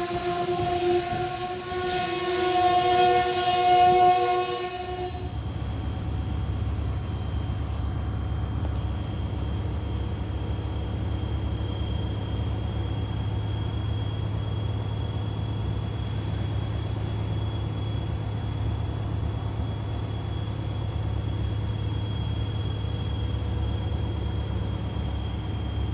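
Train horn sounding a chord, with the train running beneath it, for about five seconds before it cuts off abruptly. After that comes a steady low rumble with a faint thin high whine.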